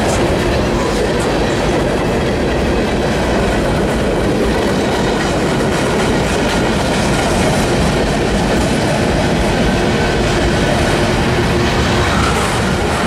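Freight cars of a CSX mixed manifest train rolling past at close range: a loud, steady rumble of wheels on rail with the clickety-clack of wheels passing over rail joints.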